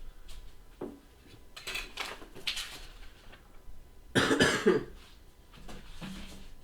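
A person coughing once, about four seconds in, after a couple of softer short noisy sounds around two seconds in.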